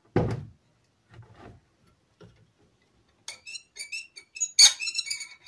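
A dull thump, a few faint knocks, then a quick run of light metallic clinks and ticks with a brief ringing: small metal objects being handled on a workbench.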